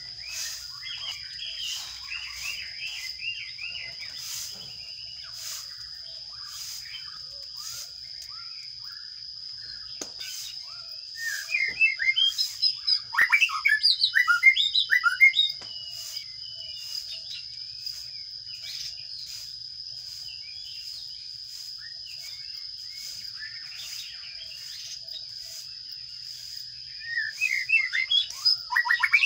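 Sparrow chicks in a nest box chirping in loud bursts of rapid, overlapping calls about eleven seconds in and again near the end, typical of nestlings begging as a parent brings food. Quieter chirping comes at the start, and a steady high-pitched whine runs underneath.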